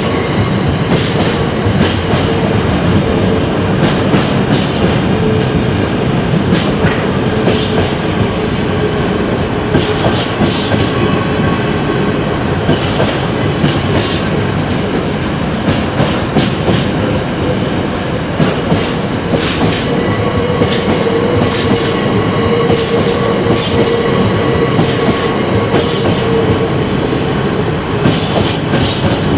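Train running through the station, its wheels clattering in irregular clicks over the rail joints, with a faint steady whine held throughout.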